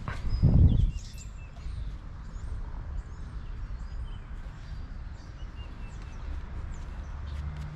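Small birds chirping again and again, short high calls scattered throughout, over a low steady rumble. A dull thump sounds about half a second in.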